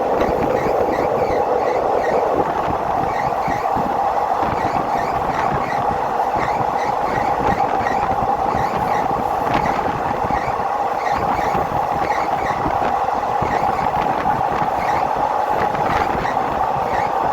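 Locomotive-hauled passenger train running along the line, heard from on board: a steady rumble and rattle with a constant mid-pitched whine.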